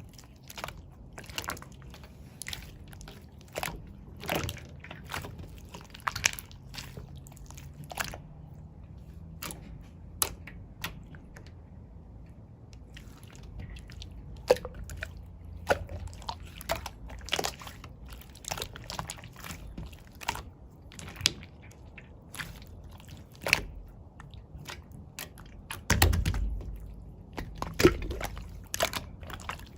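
Cloud slime being stretched, squeezed and poked by hand: irregular sticky crackles and pops, with a couple of louder, deeper squishes near the end.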